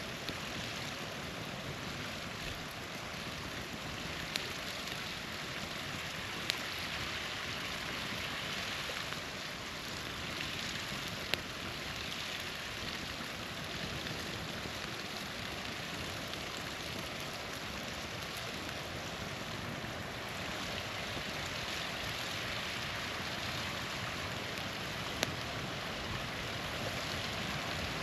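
Small waterfall rushing steadily, with a few sharp pops from a crackling campfire.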